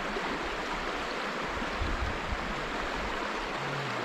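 The Hoh River rushing past: a steady wash of flowing water.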